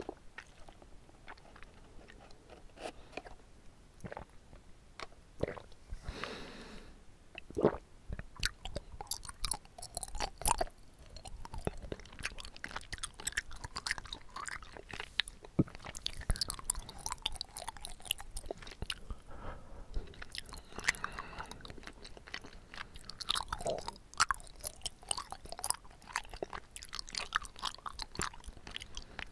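Close-miked chewing of bubble tea tapioca pearls: a steady run of irregular mouth clicks.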